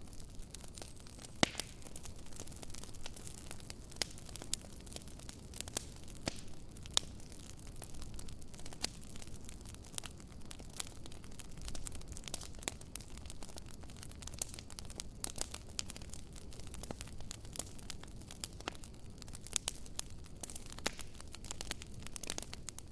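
Wood campfire crackling, with irregular sharp pops and snaps over a low steady rush of the flames; one pop about a second and a half in is the loudest.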